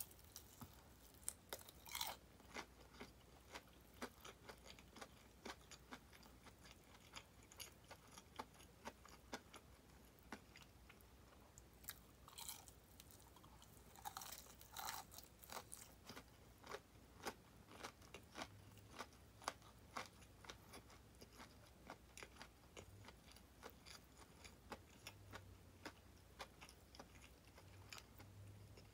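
A person biting and chewing crispy fried chicken drumettes ('tulip' wing drumettes), the fried coating crunching in many short, irregular crunches. The crunching is louder in bouts about two seconds in, about twelve seconds in and around fifteen seconds in.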